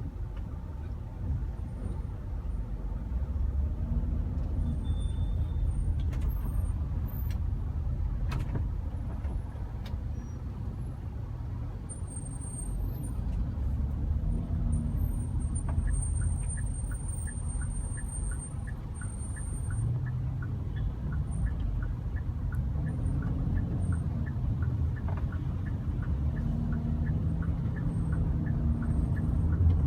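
Car traffic: a steady low rumble of engine and tyres, with a light regular ticking about twice a second through the second half, and the rumble swelling near the end.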